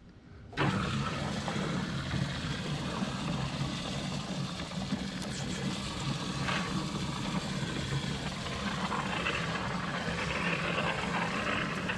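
A motor-driven machine starts abruptly about half a second in and runs steadily, a low hum under a wide hiss.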